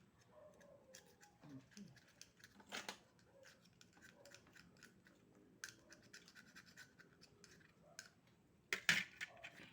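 Scraping and clicking of oyster shells and eating utensils, with two louder clatters, about three seconds in and again near the end.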